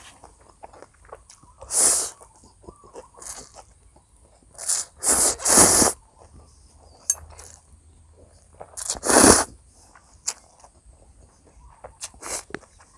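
A person eating close to the microphone: quiet chewing broken by short, loud bursts of eating noise, about two seconds in, a cluster around five to six seconds, and again about nine seconds in.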